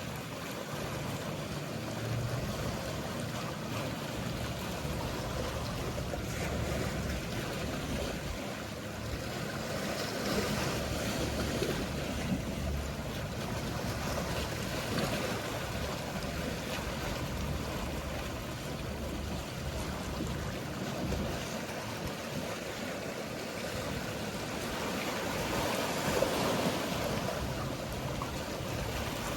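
Mediterranean sea waves washing in with gentle swells, under the low hum of passing motorboats.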